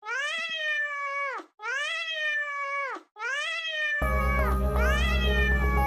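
A cat giving long, drawn-out meows one after another, each about a second and a half and dropping in pitch at the end. Music with a bass line comes in about four seconds in, under the meows.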